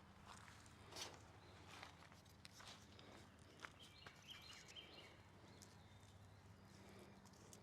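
Near silence: faint scattered clicks and rustles over a low steady hum, with a few faint high tones about four seconds in.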